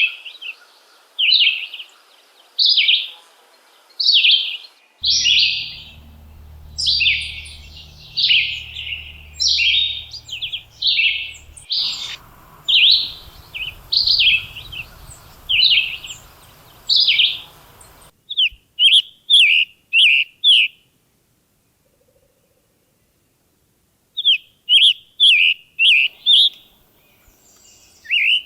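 A bird calling over and over: short, loud notes about one a second for much of the time, then quicker runs of sharper notes, with a brief silent pause about two-thirds of the way through.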